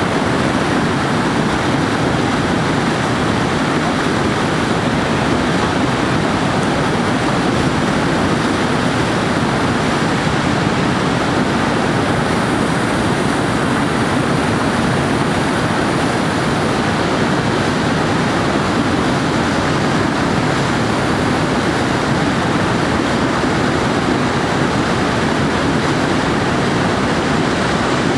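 Steady rush of whitewater from tidal rapids, an even, unbroken roar of churning water.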